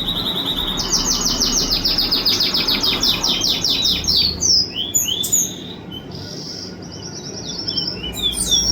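A songbird singing close by: a fast run of high, repeated notes for a few seconds, then a few sliding notes, a short pause, and another quick burst of song near the end.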